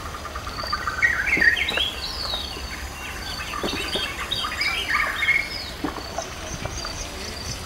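Several birds chirping and chattering, a dense run of quick rising and falling calls from about a second in that thins out near the end.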